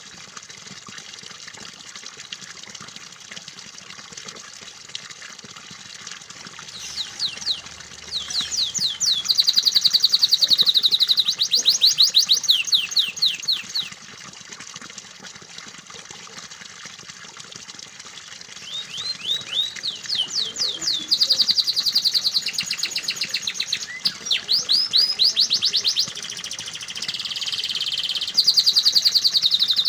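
Domestic canary singing: two long bouts of fast rolling trills and rapidly repeated high notes, about seven seconds in and again from about nineteen seconds, over a steady hiss of running, splashing water.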